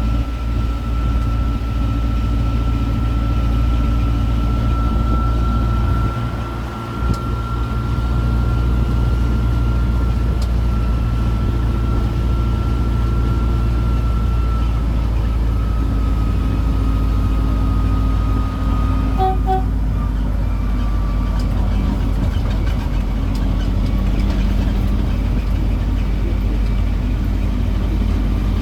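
Road tourist train's engine running with a steady low drone and a thin whine that sags slightly in pitch as it drives. A brief double beep sounds about two-thirds of the way through.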